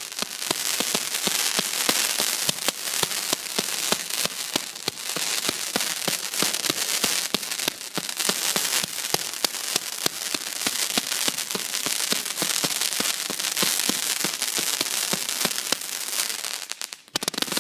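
A 182-shot consumer fireworks cake firing: a rapid, continuous string of shots and crackling effects that thins out briefly near the end.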